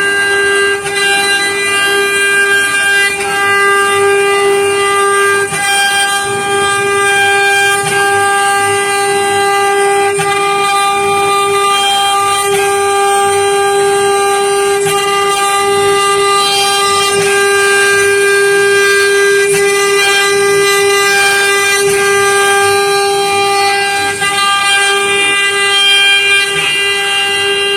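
CNC wood router running and carving: its spindle gives a steady high whine over the rasp of the cutter in the wood, with brief dips about five seconds in and again near the end.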